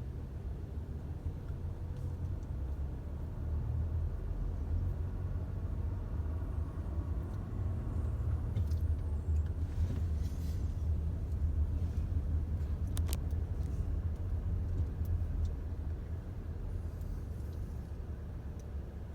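Vehicle engine running with a low, steady rumble that swells through the middle and eases near the end, with a couple of sharp clicks partway through.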